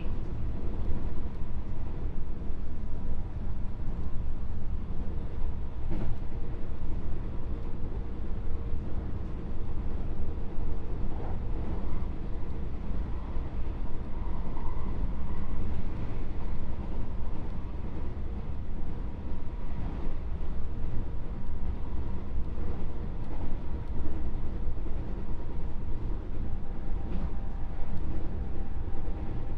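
Onboard running noise of a JR West 221 series electric train, heard inside the motor car: a steady low rumble of wheels on rail with a faint steady hum over it. A single sharp click about six seconds in.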